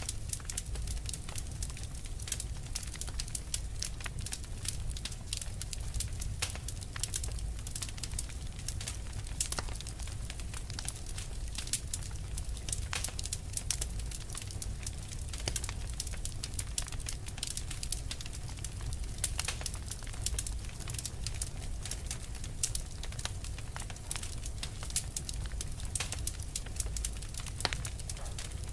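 Fire burning with dense, irregular crackles over a steady low rumble.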